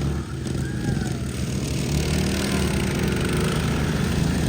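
Racing riding lawn mower engines running steadily, with a brief dip in loudness just after the start.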